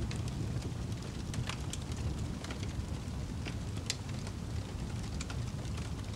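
Wood fire burning in a fireplace: scattered sharp crackles and pops over a low, steady rumble, with one louder pop about four seconds in.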